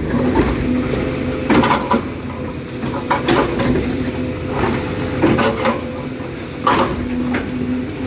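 Excavator engine running under hydraulic load, its pump tone rising and dropping, with irregular sharp metal clanks and knocks of the attachment against hard rock about every one to two seconds.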